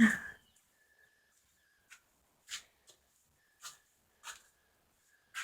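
Pet dogs moving about: a short loud sound right at the start, then soft clicks every half second to a second, with a faint, broken, high thin whine.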